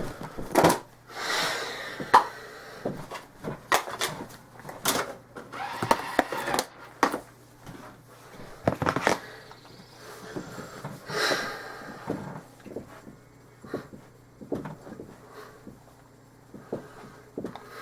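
Plastic DVD case being handled: a string of irregular clicks, snaps and knocks with short rustling scrapes, as of a case being opened and a disc taken out.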